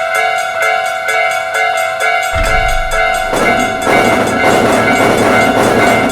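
Japanese railroad crossing warning bell ringing steadily, about two strikes a second. About two seconds in, a low train rumble comes in under it, building to the noise of a passing train.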